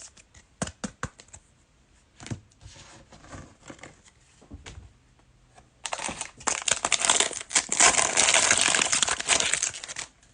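Foil wrapper of a Mosaic football card pack being handled, torn open and crumpled: a few light clicks and rustles, then loud, dense crinkling lasting about four seconds, starting about six seconds in.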